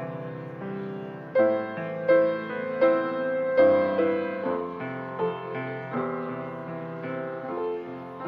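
Piano playing slow, gentle chords, with four stronger struck notes in an even rhythm about a second in, then softer again.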